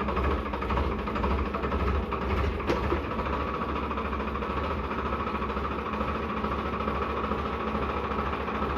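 A heavy diesel engine idling steadily, with an even low rumble that does not change.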